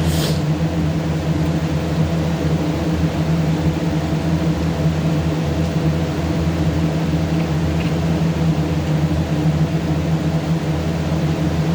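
Steady low mechanical hum made of several even tones, unchanging throughout, with a short click right at the start.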